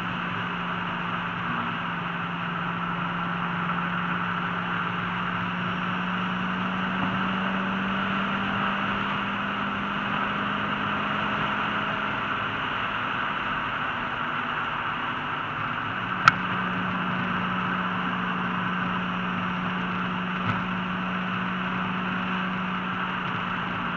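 Ford GT engine running at a steady cruise, heard from inside the cabin over constant tyre and wind noise; its drone rises a little and shifts in pitch about two-thirds of the way through. A single sharp click stands out at that point, with a fainter one a few seconds later.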